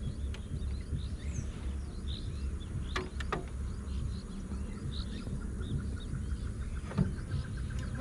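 Small birds chirping again and again over a steady low rumble, with two sharp clicks about three seconds in.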